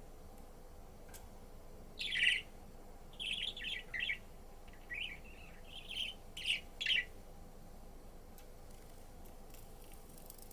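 Pet budgerigar chirping: a run of short, high chirps from about two seconds in until about seven seconds, the first the loudest.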